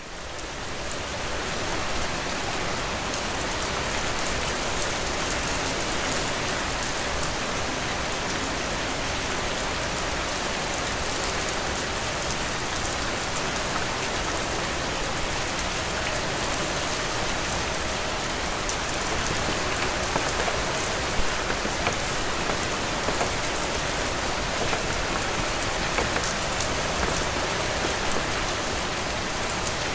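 Heavy rain falling steadily, a dense even hiss with scattered sharper drop taps. It fades up over the first two seconds, then holds level.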